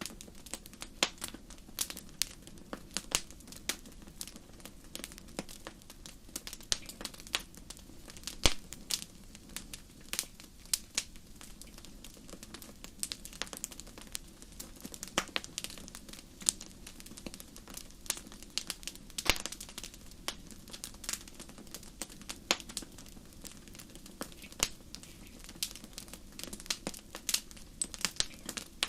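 Wood fire crackling: irregular sharp pops and snaps, several a second, over a soft steady low rumble.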